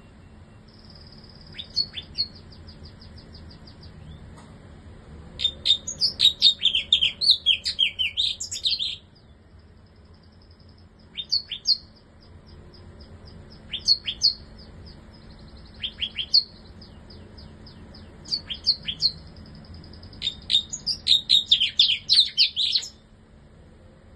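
Bar-winged prinia singing. Two long bursts of loud, rapid, high chirping notes come, one about six seconds in and one near the end. Between them are short sharp double calls and a thin, high buzzing trill.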